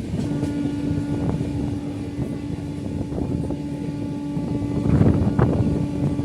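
Shantiniketan Superfast Express train in motion, a steady rumbling rush with a single steady pitched tone coming in just after the start and holding on above it. Louder surges of noise about five seconds in.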